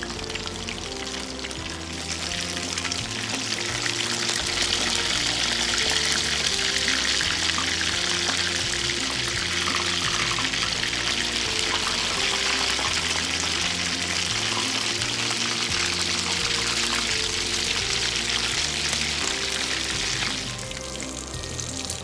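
Battered whitebait sizzling steadily in hot oil in a frying pan, over background music. The sizzle builds over the first few seconds and drops away sharply near the end.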